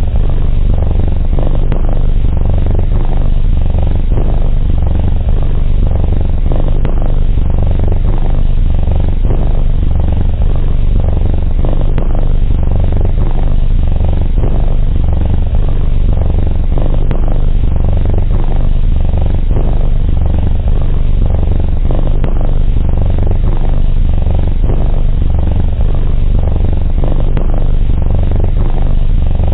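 Domestic cat purring close to the microphone: a loud, steady low rumble that goes on without a break.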